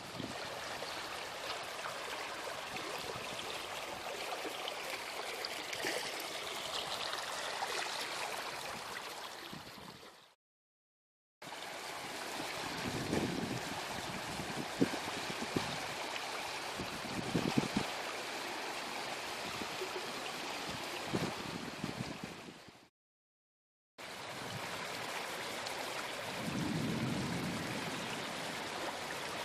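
Rainwater runoff flowing in a stream, a steady rushing of water. It cuts to silence briefly twice, with a few low rumbles here and there.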